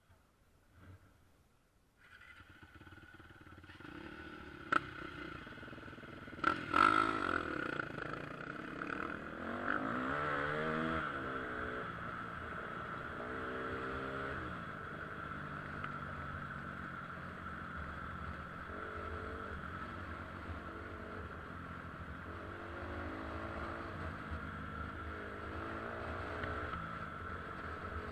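KTM EXC 250 dirt bike engine coming in about two seconds in, with two sharp knocks soon after, then running with its pitch rising and falling as the throttle is opened and closed.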